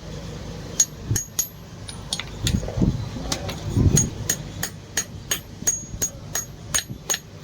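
Blacksmith's hammer striking steel on an anvil in a steady rhythm, about three ringing blows a second, with a few duller low thuds in the middle. The steel is bearing steel being forged into a throwing knife.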